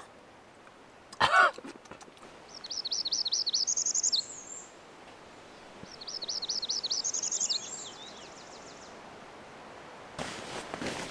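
A songbird singing two phrases, each a run of quick, repeated high chirps that climbs into a higher trill, over a faint steady hiss. A short loud pitched sound comes about a second in, and a rustling noise starts near the end.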